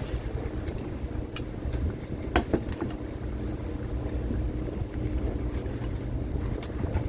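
Fishing boat's engine running steadily with a low rumble and hum, with wind on the microphone. A few sharp knocks stand out, the loudest about two and a half seconds in.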